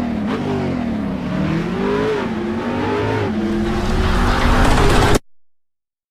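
Suzuki Satria FU motorcycle engine with an aftermarket racing exhaust, revving hard on a circuit, its pitch rising and dropping again and again through the gears. It grows louder toward the end, then cuts off abruptly into silence about five seconds in.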